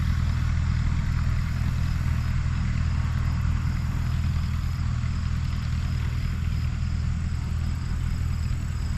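1954 Fordson tractor engine running steadily at an even speed, brought back to life after years of sitting.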